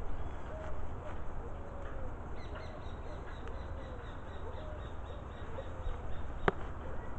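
Birds calling in short repeated notes over a steady low rumble, with a faint high trill from about two and a half seconds in and one sharp click near the end.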